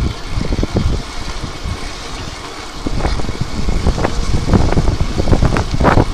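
Wind buffeting the microphone on a moving electric bike, with a steady low rumble and many short knocks and rattles that become louder and more frequent about halfway through.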